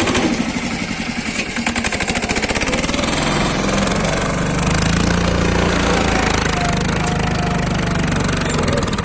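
Lombardini single-cylinder diesel engine of a Yağmur YET510 pat-pat two-wheel tractor running with a fast, even chug, then working harder with a louder, steadier low drone from about three seconds in, as it is pushed at a steep off-road obstacle.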